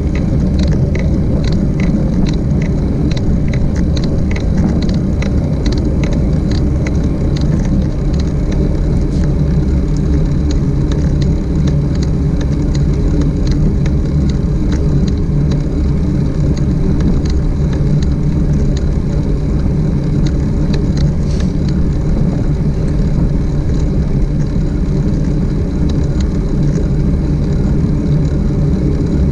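Steady wind and road noise from a moving bike, heavy and low, with a run of light clicks for the first several seconds.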